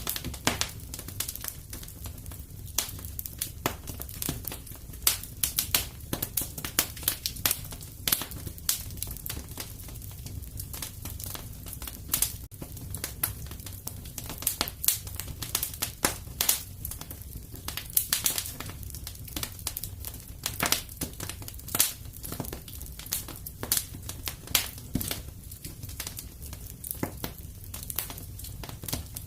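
Wood fire in a fireplace crackling: a steady low rumble of flames with many irregular sharp pops and snaps.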